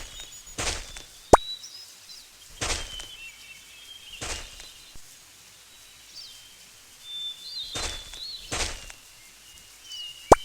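Birds chirping, with several short noisy bursts spaced a second or two apart and two sharp clicks, one about a second in and one near the end.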